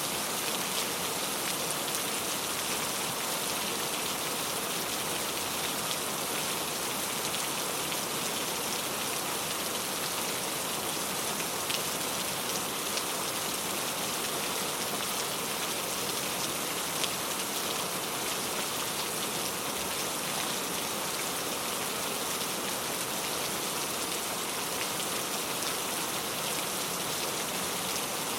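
Heavy rain falling steadily, a dense even hiss with a few sharper drop ticks now and then.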